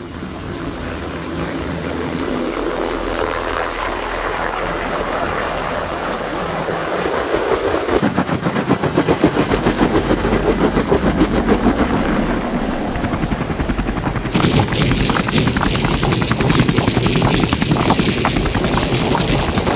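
Chinook helicopter sound effect. For the first eight seconds it is a steady rush with a high turbine whine. It then changes to a fast, rhythmic rotor chop, which turns harsher and more crackly about fourteen seconds in.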